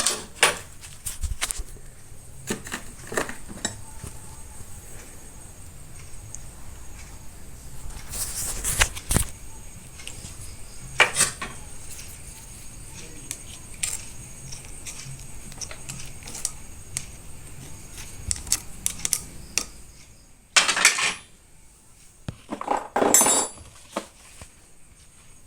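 Metal hand tools and small metal parts clinking and knocking, with a few longer scraping rasps, during work on a motorcycle's front brake master cylinder.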